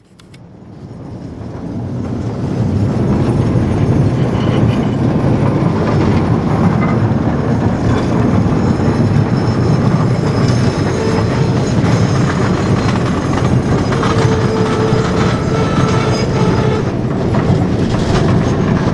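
Durango & Silverton narrow-gauge train rolling by: steady rumble and clatter of wheels on rail, fading in over the first couple of seconds and then holding loud and steady, with a faint wheel squeal briefly about two-thirds of the way through.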